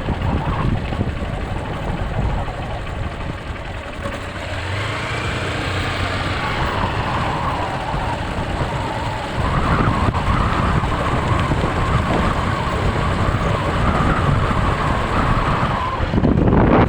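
Heavy rain falling in a steady hiss, with a wavering whine over it through the second half.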